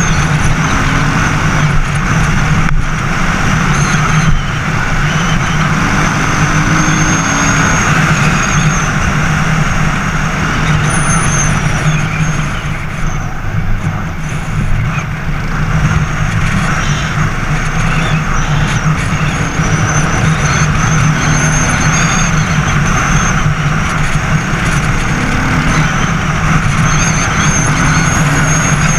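Racer Panther 300 enduro motorcycle's engine running steadily while riding.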